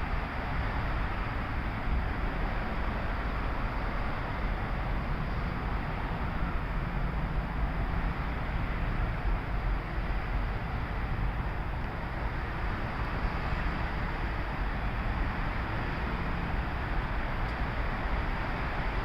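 LIRR M3 electric multiple-unit train at the platform, giving a steady rumble and hiss with no distinct knocks or tones.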